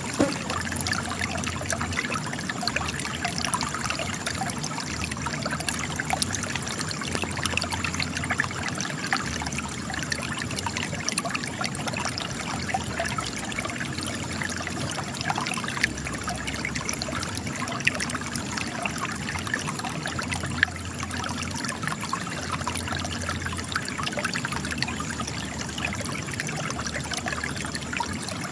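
Spring water trickling and splashing steadily from cracks in rocks.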